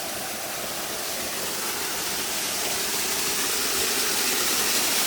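Steady rushing of a waterfall and its falling water, slowly growing louder.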